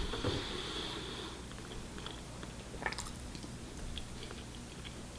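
Quiet eating at a table: faint chewing with a few small clicks, and a brief soft hiss about the first second.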